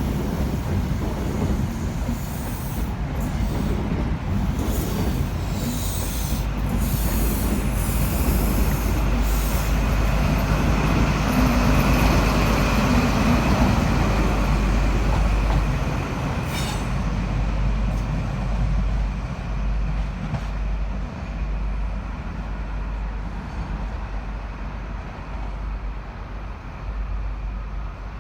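An HST departing, its Class 43 diesel power cars and coaches running out of the station: a constant low engine hum under rail noise that builds to its loudest about halfway through, then fades.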